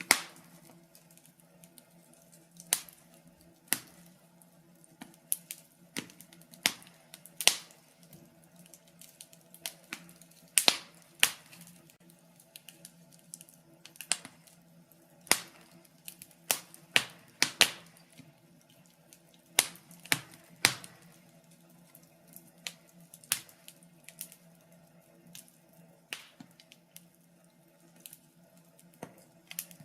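Wood fire crackling in a fireplace: sharp, irregular pops and snaps, one or two a second, some much louder than others, over a faint steady low hum.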